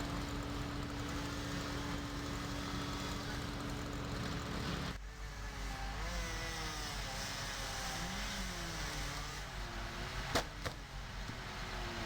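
An engine running, steady at first; after an abrupt change about five seconds in, its pitch wavers up and down. A sharp click comes near the end.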